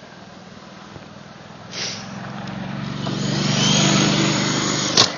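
Remote control toy helicopter's rotor whirring steadily, growing much louder as it comes close. A sharp knock sounds just before the end.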